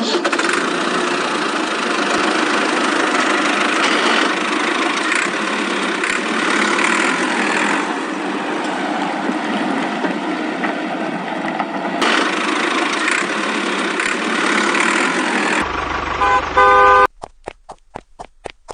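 A vehicle running steadily, then a short burst of car-horn honking near the end, followed by a few faint clicks.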